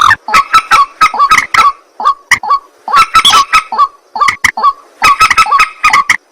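White-breasted waterhen (ruak-ruak) calling over and over: loud, harsh honking calls several to the second, in bursts of rapid repeats broken by short pauses.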